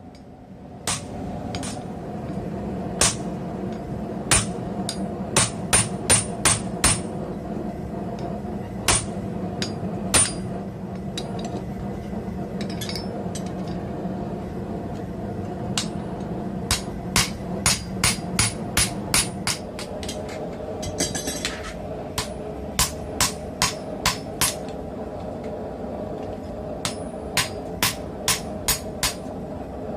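Hand hammer striking hot mild steel on an anvil, in quick runs of several blows with short pauses between, over a steady hum.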